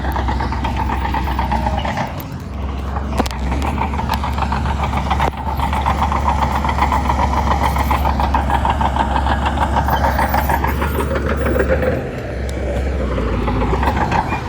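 Shantui bulldozer's diesel engine running hard with a fast metallic rattle, easing off briefly about two seconds in and again near the end, with a couple of sharp knocks.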